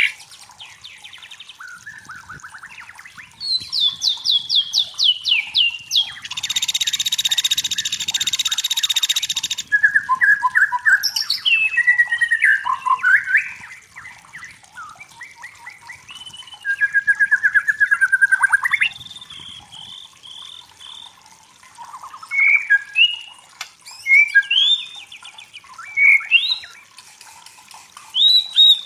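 White-rumped shama singing a varied song of whistled phrases and rapid trills, with a harsh buzzing rattle lasting about three seconds some six seconds in.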